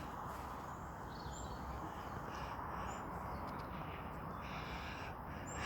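Outdoor ambience: a steady rush of background noise with birds calling over it, three short high chirps and several harsher cawing calls.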